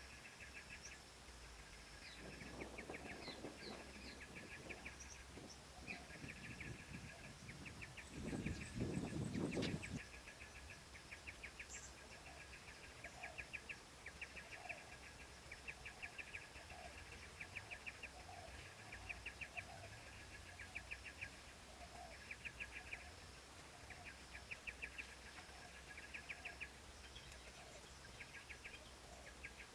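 Faint, rapid chirping in repeated short trains, going on throughout. A louder rustling noise comes about two to four seconds in, and again around eight to ten seconds.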